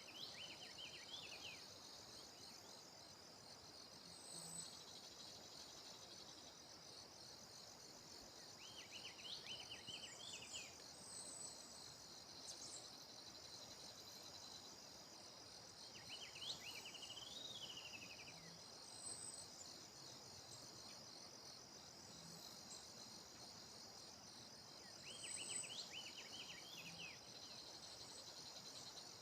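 Faint steady chorus of insects, a fine high trill, with a bird singing a short phrase of rapid chirping notes about every eight to nine seconds, four times.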